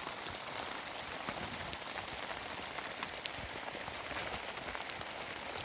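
Steady rain falling, with many sharp individual drop ticks scattered through it.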